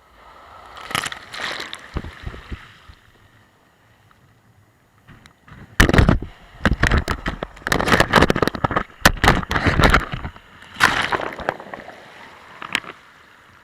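Sea waves breaking and washing up the shore in surges: one swell about a second in, a louder, rough, crackling stretch from about six to ten seconds, and another wash near the end.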